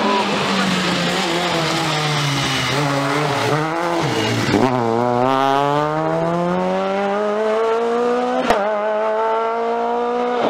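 Rally car engine under hard driving. Its pitch falls over the first few seconds, dips briefly about four and a half seconds in, then climbs steadily as the car accelerates away. A single sharp crack comes about eight and a half seconds in.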